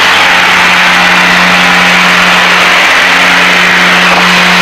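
Steady drone of a Piper Seneca's twin piston engines and propellers in cruise, heard inside the cabin, with a constant rush of airflow over it.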